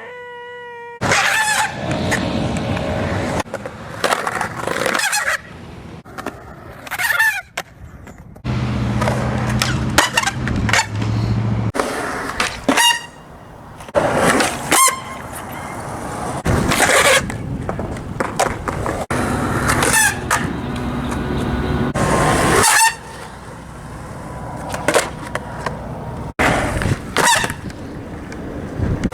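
Skateboard rolling on pavement through a series of powerslides, the urethane wheels squealing loudly each time they are slid sideways, with the rumble of rolling between the slides.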